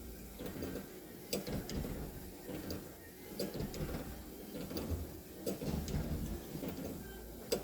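Leyland tractor's cab windscreen wiper motor running after being repaired, driving the wiper back and forth with a low hum of the motor and linkage and a sharp click about every two seconds as the arm turns at the end of each sweep.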